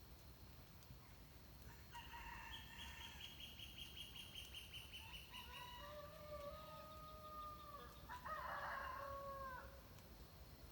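Faint, distant rooster crowing mixed with whistled calls of wild birds, several calls one after another.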